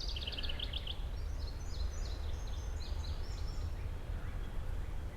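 Songbirds singing: a quick run of repeated high notes in the first second, then a string of short, very high down-slurred notes for a couple of seconds, over a low steady rumble.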